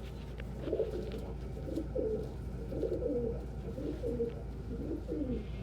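Domestic pigeons cooing: a string of low, wavering coos one after another.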